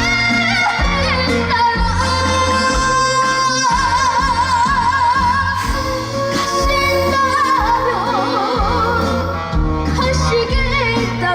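A male singer sings a song live over a backing track, holding long notes with a wide, wobbling vibrato above a steady bass line.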